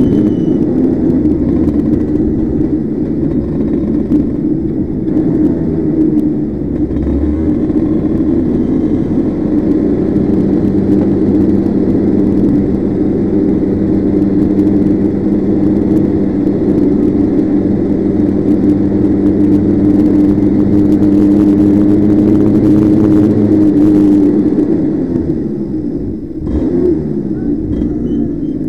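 Kart engine running hard at steady high revs, the pitch shifting a little as it laps, then easing off about 25 seconds in.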